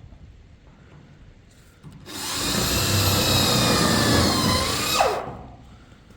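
A power tool starts abruptly and runs with a high whine for about three seconds, then its pitch drops sharply as it winds down.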